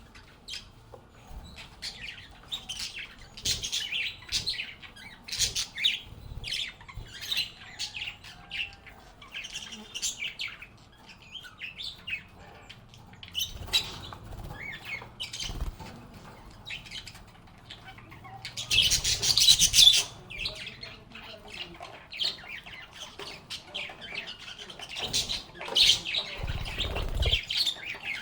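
Lovebirds chirping and squawking in short, scattered high calls, with a louder dense cluster of calls about two-thirds of the way through. A few low thuds come in between, one about halfway and a couple near the end.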